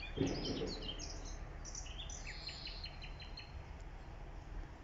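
Several songbirds singing and chirping, with a quick trill of about six short notes a little over two seconds in. A short low noise, the loudest moment, comes just after the start, over a steady low rumble.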